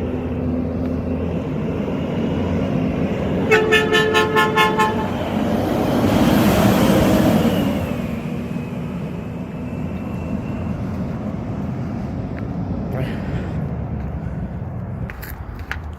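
Garbage truck's diesel engine running, with its horn tooted in a quick burst of about seven short honks a few seconds in, then the truck's noise swelling louder for a couple of seconds.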